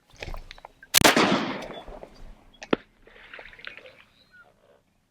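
A single shotgun shot about a second in, its report rolling away for over a second, followed by one sharp click.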